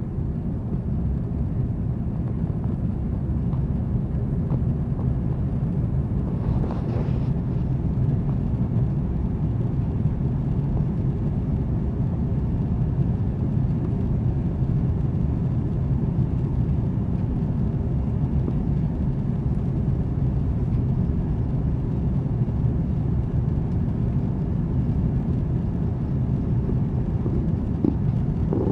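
Airbus A330-300 cabin noise from a window seat during the climb after takeoff: a steady low rumble of the Rolls-Royce Trent 700 engines and airflow.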